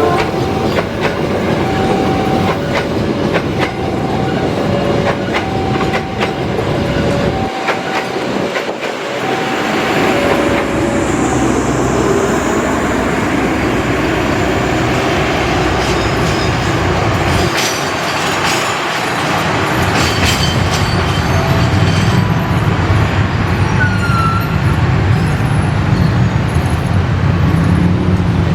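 Train running, a steady rumble and clatter of wheels on rails. Over the first several seconds two tones alternate over the rumble.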